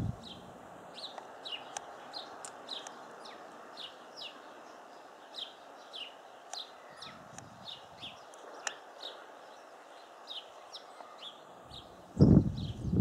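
Small songbirds calling: a steady series of short, high notes that slide downward, about two or three a second. A loud low rumble starts near the end.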